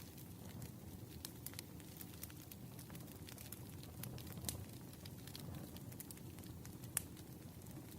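Campfire crackling: a low, steady rumble of flames with frequent sharp pops and snaps, the loudest pop about seven seconds in.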